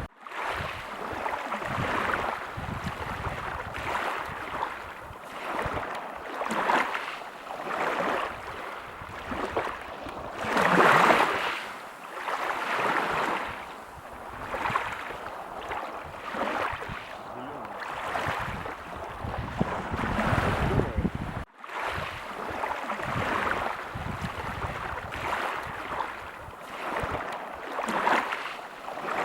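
Sea waves breaking on a beach, washing in and out in repeated swells every few seconds, the biggest one about a third of the way in. The sound drops out for an instant about two-thirds of the way through.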